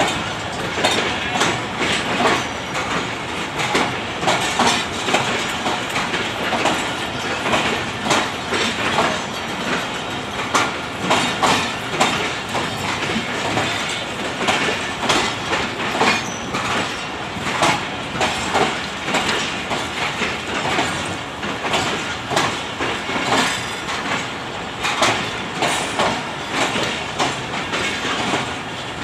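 Passenger express train's coaches rolling through the station, steel wheels clacking over rail joints in a continuous run of sharp clicks.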